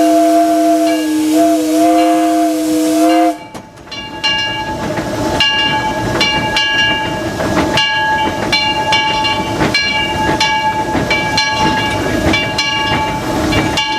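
A three-chime steam whistle, the 4-inch Powell on 1925 Baldwin locomotive #4 Ernest S. Marsh, sounding one long chord with steam hiss, the pitch dipping briefly, then cutting off about three seconds in. After a short lull, the locomotive runs on with a steady train of rhythmic beats.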